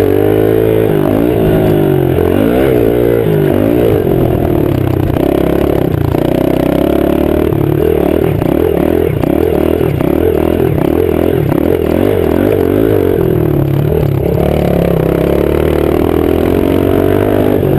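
Honda-style 110 cc pit bike's single-cylinder four-stroke engine being ridden hard round a dirt track, revving up and falling back over and over as the throttle is opened and shut, with a few steadier stretches at a held speed.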